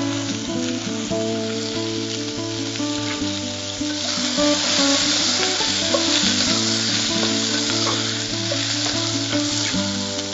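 Brinjal pieces frying in hot oil in an aluminium pressure cooker and being stirred with a wooden spatula; the sizzle grows louder about four seconds in.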